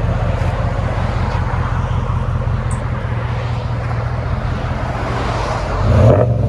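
Ram 1500's 5.7-litre Hemi V8 running loud and steady through an aftermarket exhaust, briefly breaking off and coming back louder near the end.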